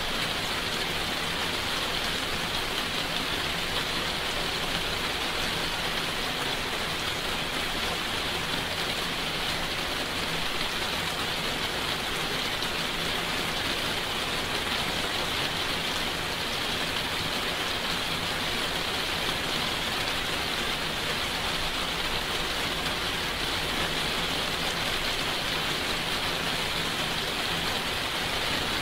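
Steady rain falling, an even hiss with no thunder claps.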